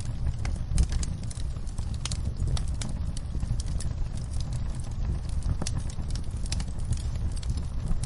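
Campfire burning: irregular sharp crackles and pops from the wood over a steady low rumble of the flames.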